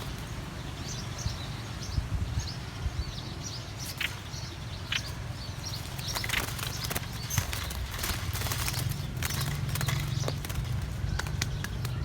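Trapped small songbirds fluttering and scrabbling in a cage, with many sharp knocks and rattles and scattered short high chirps, over a steady low rumble of wind.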